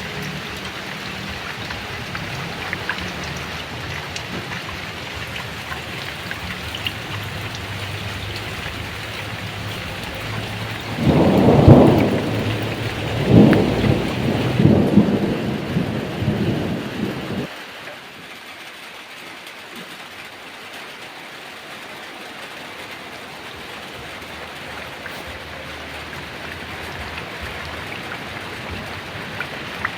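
Heavy rain falling steadily, with a rolling peal of thunder about a third of the way in that swells twice over some six seconds and then cuts off abruptly.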